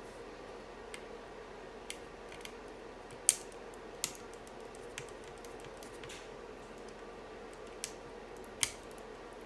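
Scattered sharp clicks and snaps of keyboard parts being handled and fitted during a mechanical keyboard build, irregularly about one a second, with two louder snaps about a third of the way in and near the end.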